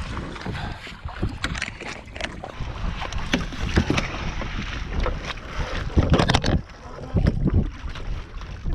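Water sloshing and splashing irregularly against the hull of a Hobie Tandem Island sailing kayak, with wind buffeting the microphone as a low rumble.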